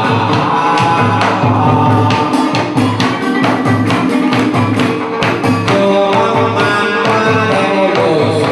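Vietnamese chầu văn ritual music: singing over plucked strings, with a run of sharp percussion strikes.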